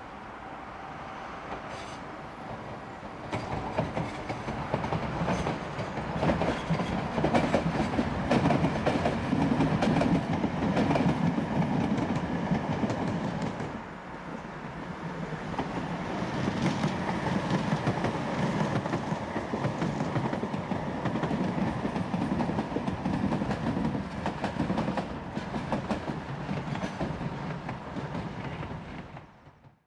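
A train running along the line with a steady rumble and wheels clicking over rail joints. It builds up a few seconds in, dips briefly around the middle, rises again, and cuts off suddenly at the very end.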